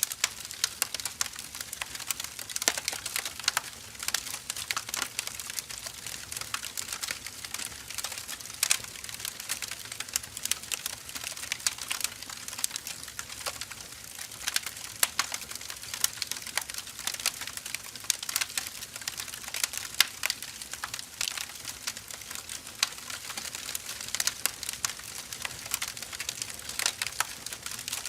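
Burning firewood logs crackling and popping: a dense run of irregular sharp snaps over a steady hiss of the flames.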